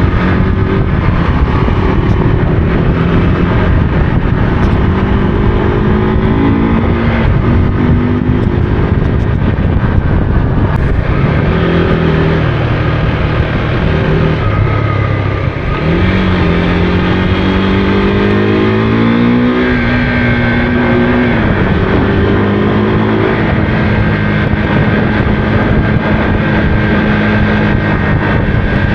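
Motorcycle engine under way, revs rising and dropping repeatedly with a long climb near the middle before holding steady, over heavy wind and road noise.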